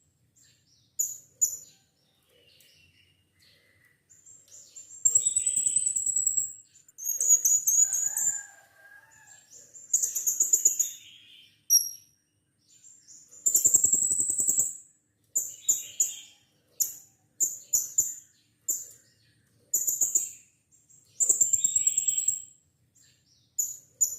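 Blue-crowned hanging parrot (serindit) calling in repeated bursts of shrill, high-pitched chirps. Some bursts last a second or more and others are short single chirps, with brief pauses between them.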